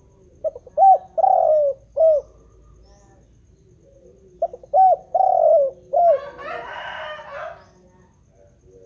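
Spotted dove (tekukur) singing: two cooing phrases a few seconds apart, each a few quick short notes followed by longer, rounded coos. Just after the second phrase comes a rougher, hissy sound lasting about a second and a half.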